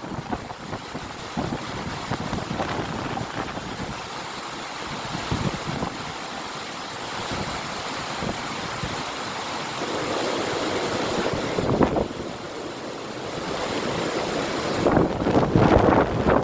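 River water rushing, with wind buffeting the microphone in gusts; a stronger gust swells near the end.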